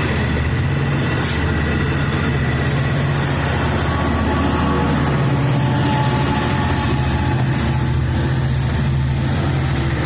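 Long Island Rail Road diesel train pulling out, its diesel locomotive engine running steadily and loudly at a low pitch.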